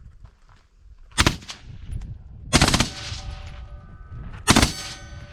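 Full-automatic gunfire in three short bursts, the first very brief, the next two roughly a second and a half to two seconds apart, each echoing off afterward.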